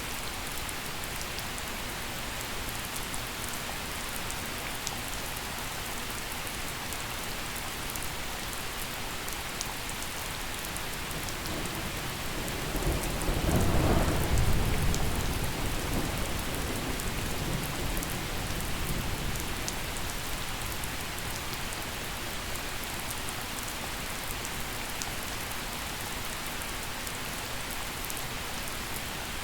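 Steady gentle rain falling on surfaces, with a single roll of thunder that swells in about twelve seconds in, peaks a couple of seconds later and rumbles away over the next several seconds.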